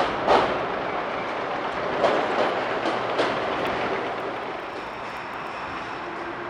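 Train-like clattering noise from maintenance work inside the Kanmon Bridge's girder, which the uploader takes for a temporary trolley carrying materials. Several sharp clanks come in the first three seconds or so, then the noise runs on steadier and a little quieter.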